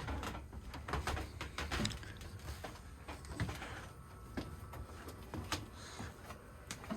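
Scattered light knocks and clicks, roughly one a second, over a low rumble in a small room: footsteps and handling noise from someone walking about.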